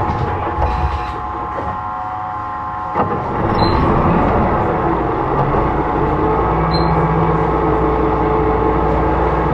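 Hyundai Blue City low-floor hybrid bus running on its G240 engine and electric motor drive, a steady mechanical drone with whining tones. It drops quieter for a couple of seconds, then a sharp knock comes about three seconds in and the drive sound rises again.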